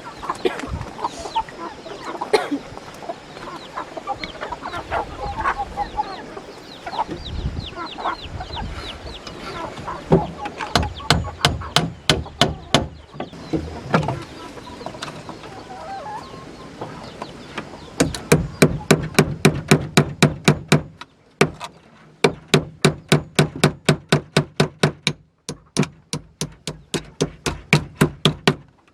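Chickens clucking, then a hammer driving nails into wood for the pigeon house: quick, even blows, about three a second, in several runs with short pauses.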